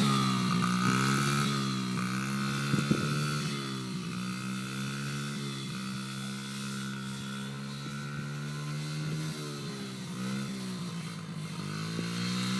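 Motorcycle engine running while being ridden, its pitch rising and falling repeatedly with the throttle. It grows quieter over the first few seconds as the bike moves away and louder again near the end as it comes back.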